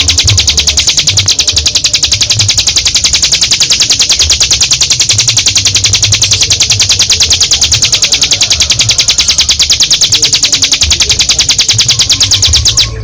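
A ciblek gunung singing one long, rapid, unbroken trill of even high notes, the drawn-out 'ngebren' song. The trill breaks off right at the end, over a faint intermittent low rumble.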